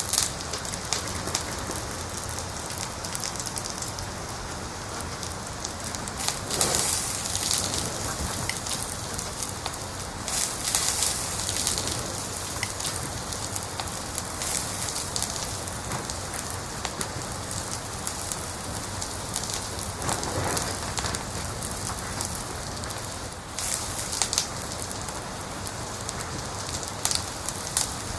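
Wood fire crackling in a fireplace: a steady hiss of small crackles, with flurries of dense, sharp crackling several times, a little after 6 s, around 10 to 12 s and around 24 s.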